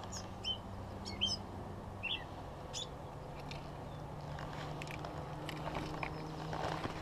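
A small bird chirping in short, quick notes, several in the first three seconds, over a steady low hum.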